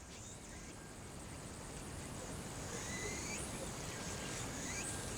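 Birds calling several times in short, sweeping high notes over a steady background rush of outdoor noise that slowly grows louder.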